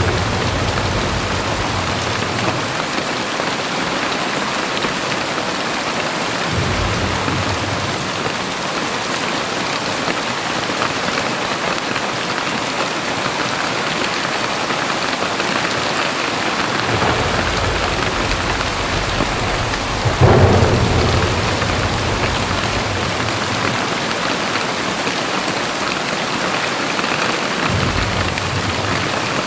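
Heavy rain falling steadily, with several low rumbles of thunder. The loudest is a sharper clap about two-thirds of the way through.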